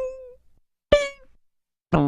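Short comedic cartoon sound effects played one after another. A pitched blip fades out at the start. A sharper blip with a slightly falling tone comes about a second in. Near the end a third effect begins, gliding down in pitch into a wobbling low tone.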